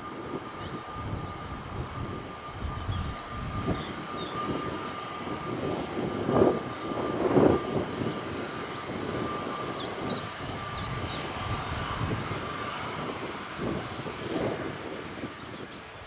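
Jet airliner engines at close range: a rushing noise with a steady high whine, loudest a little past the middle, the whine fading out a few seconds before the end.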